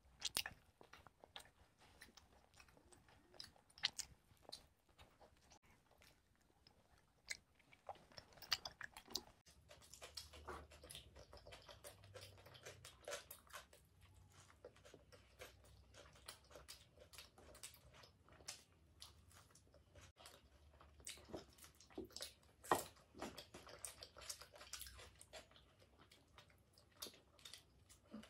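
Close-miked eating: bites and chewing of pizza, with irregular crunches and wet mouth clicks, several bites standing out louder.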